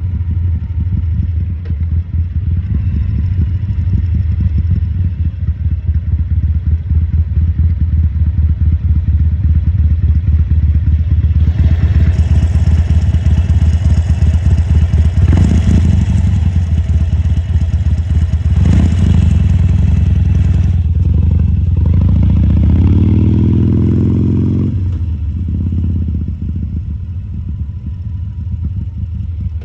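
2014 Harley-Davidson Sportster 1200 Custom's air-cooled V-twin running steadily at low speed. From about 12 to 21 seconds it grows louder with an added hiss, and around 23 seconds its pitch climbs as the throttle opens, then drops back.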